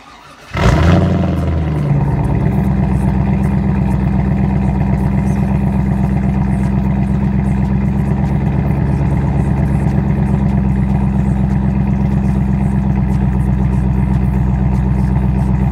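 Pontiac Firebird WS6's V8 cold-starting: it catches about half a second in with a brief flare of revs, then settles into a steady idle heard at the exhaust.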